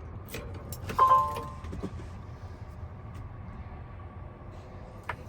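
Ignition being switched on in a Peterbilt 567 truck cab: a short electronic dashboard chime about a second in, then a steady low hum and a sharp click near the end, just before the engine is cranked.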